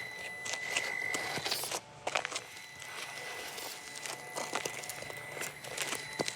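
Traxxas TRX-4M Bronco mini RC crawler driving in sand: a thin, steady whine from its 87-turn brushed motor and gears, with scattered crunches and crackles of the tyres in the sand.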